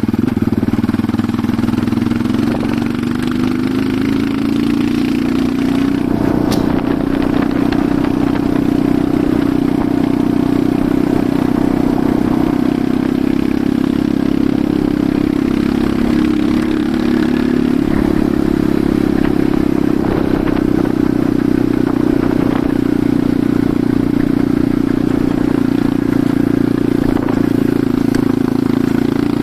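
Enduro motorcycle engine running steadily, its pitch climbing over the first few seconds and then holding level, with a few brief knocks.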